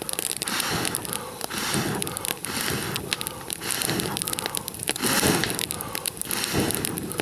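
A person blowing on a newly lit campfire of birch bark and small dry twigs in repeated breaths, about one every second, to fan the flames, with the kindling crackling.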